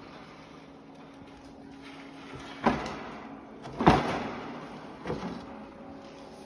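Three separate sudden knocks a little over a second apart, the middle one the loudest, each trailing off briefly.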